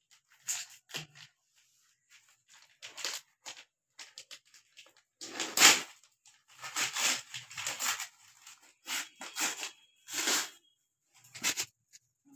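Gift wrapping being torn open and crinkled by hand, in irregular short bursts, loudest about halfway through.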